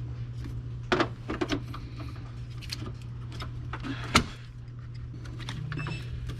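Scattered clicks and knocks of car parts being handled, the loudest about four seconds in, over a steady low hum.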